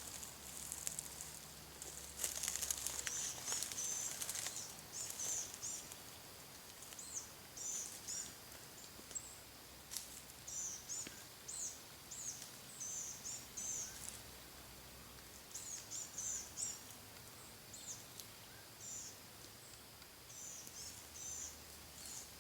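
A small songbird singing short, high-pitched chirping phrases over and over, with some rustling in the first few seconds.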